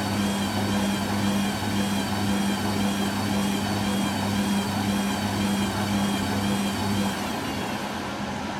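Hoover Quattro AE130 washing machine running during its rinse and spin programme: a steady low hum under a higher whine that wavers up and down in pitch. The low hum cuts out about seven seconds in while the whine carries on.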